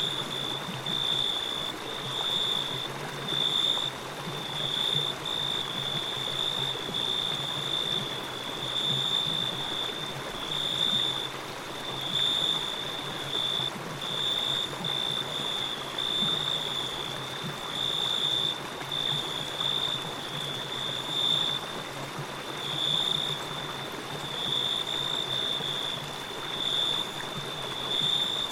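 Running water, a stream's steady rush and trickle. Over it sits a high, thin, continuous trill that swells and fades roughly once a second.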